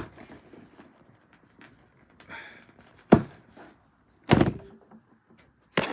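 Heavy thumps and knocks, three loud ones, as a boxed model is wrestled open on a table, jolting the table, with faint rustling and scraping between.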